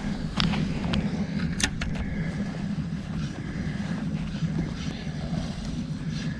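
Boat motor running steadily, a low even hum with a faint thin whine above it and a few scattered light knocks.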